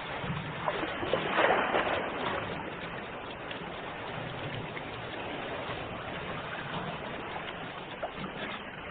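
Ocean waves washing in a steady wash of surf, with one louder breaking surge about a second and a half in.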